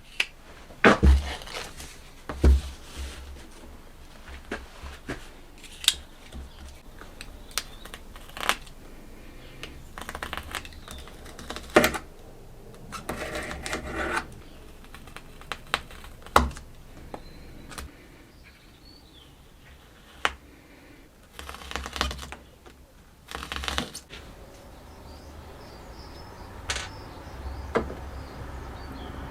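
Irregular clicks, taps and knocks of hand tools and small metal parts being handled at a workbench, with a few brief scraping or rubbing passages.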